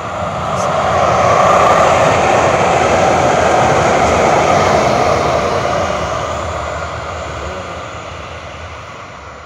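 A train passing by: a steady rushing rumble that swells over the first second or two, holds, then fades away over the last few seconds.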